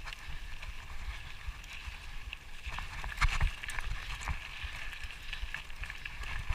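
Mountain bike rolling over a rough dirt trail: steady rumble of tyres and wind on the microphone, with scattered rattles and knocks from the bike, the loudest clatter about three seconds in.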